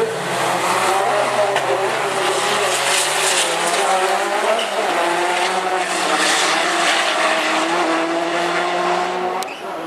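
Rallycross Supercar engines running hard at race pace, pitch shifting as they rev through the gears and climbing steadily in the second half.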